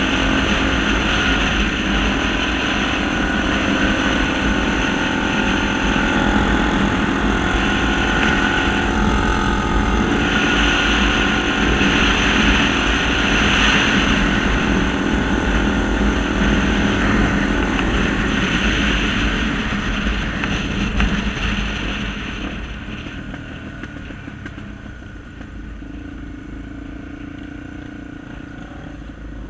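Honda XR250 Tornado trail motorcycles with single-cylinder four-stroke engines running. The engines are loud at first and fade out from about 22 seconds in, leaving a quieter engine sound.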